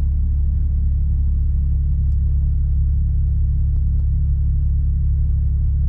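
Steady low rumble inside a truck's cab.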